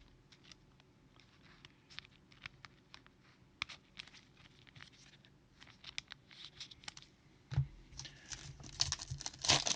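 Trading cards being handled, with faint scattered clicks as they are flicked and sorted. Near the end a foil card-pack wrapper crinkles and tears.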